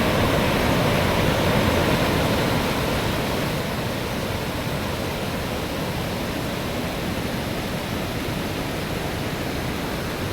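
Bousra Waterfall's falling water rushing, a steady dense noise that eases slightly a few seconds in.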